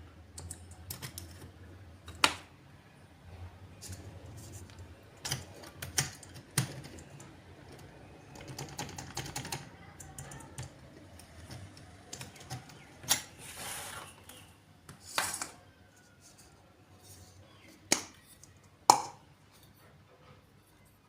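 Scattered clicks, taps and short scrapes of small hard objects being handled on a work surface, with several sharp knocks, the loudest near the end.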